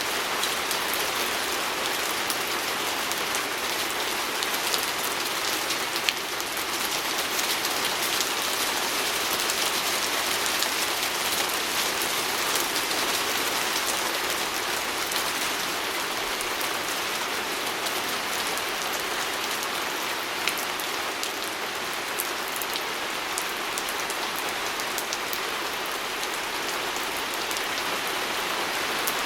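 Steady rain pattering on a window pane, an even hiss scattered with many small, sharp drop ticks.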